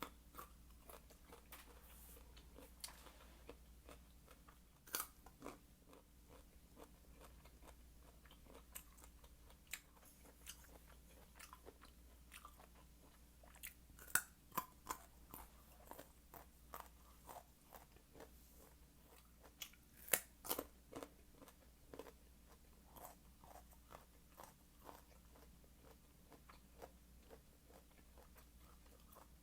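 Close-up crunching and chewing of a raw carrot stick: irregular crisp bites and crunches, with several louder crunches spread through.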